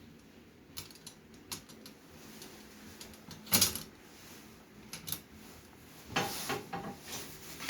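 Metal parts of a Coleman mini fire pit stand clinking and clicking as they are fitted and aligned by hand: scattered knocks, the loudest a quick cluster about three and a half seconds in.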